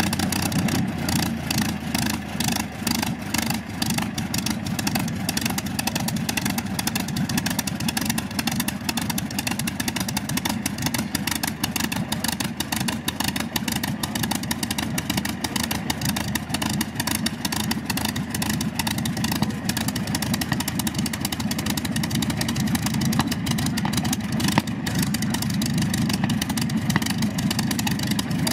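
P-51D Mustang's Packard V-1650 Merlin V12 aero engine running steadily just after start-up, with a rapid, uneven exhaust beat.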